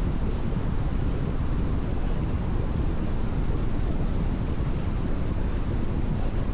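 Steady driving noise of a car on a rain-wet expressway: the rush of tyres on the wet surface mixed with wind noise, even throughout with no distinct events.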